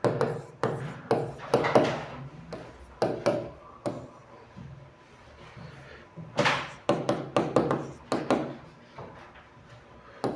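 Irregular short knocks and taps in a small room, coming in clusters of several quick strikes.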